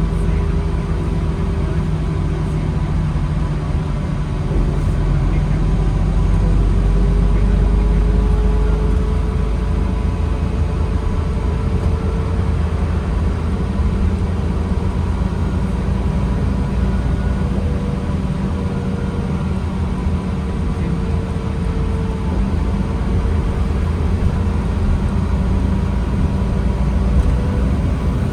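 2009 New Flyer D40LFR diesel transit bus running: a steady low engine rumble with a faint whine that slowly rises and wavers in pitch.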